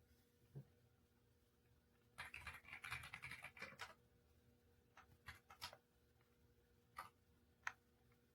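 Keys being pressed on an EPOMAKER x Aula F99 mechanical keyboard: a quick run of typing about two seconds in, then a few separate key clicks.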